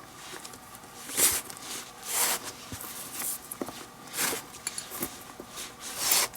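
Leather lace being drawn through the lacing holes of a baseball glove: a run of about five short rasping swishes, roughly one a second.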